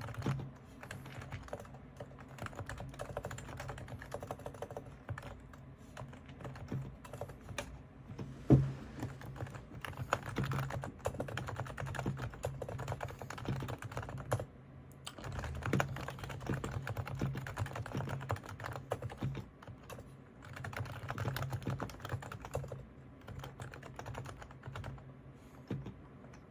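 Topre Realforce R3 silent-model keyboard being typed on: a continuous run of soft, damped keystrokes from its electrostatic capacitive rubber-dome switches, with one louder knock about eight and a half seconds in.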